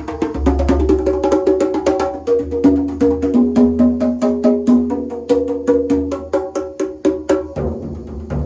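Drums being played in a fast warm-up run, several strikes a second, each ringing with a pitched note so the run moves up and down like a tune. Near the end the strikes stop and give way to a lower, duller rumble.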